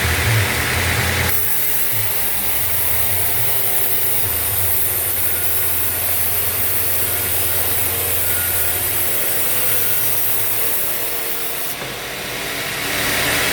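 Band sawmill blade cutting through a desert acacia log: a steady high hiss over the machine's low hum. The cut starts about a second in and stops near the end.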